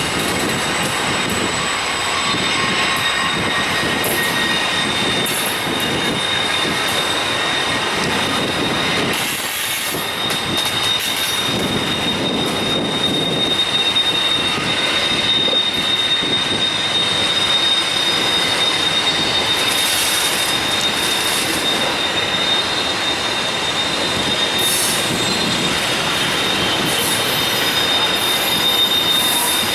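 Freight train cars rolling past with a steady, high-pitched wheel squeal over the rumble of the wheels on the rails.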